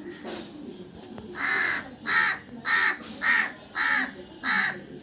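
Crow cawing: a run of six harsh caws about half a second apart, the first one longest, after a fainter caw near the start.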